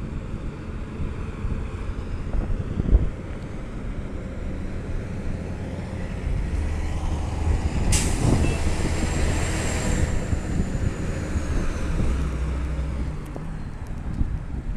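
Garbage truck's diesel engine running, with its low drone growing stronger about six seconds in. About halfway through comes a sudden hiss of air from the air brakes, lasting about two seconds.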